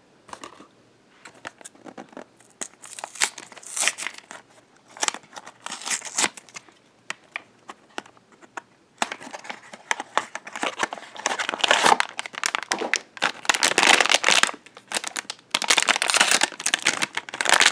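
Blind-box packaging being opened by hand: crinkling and tearing of the cardboard box and the wrapper around a mini figure. The crackling is sparse at first and becomes denser and louder about halfway through.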